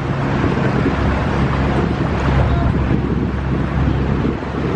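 Tour boat's motor running with a steady low hum, with wind buffeting the microphone.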